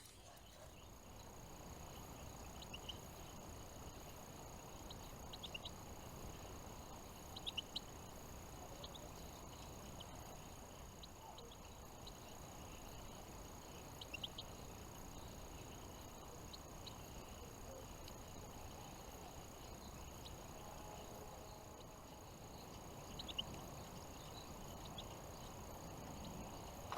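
Small songbirds giving short, high chirping calls a few at a time, scattered and faint over a steady outdoor background hiss, with a thin steady high tone throughout.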